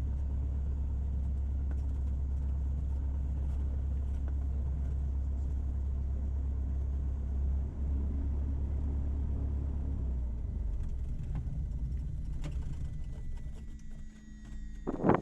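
Cessna 172's piston engine idling during taxi, heard from inside the cockpit as a steady low drone. The drone weakens over the last few seconds.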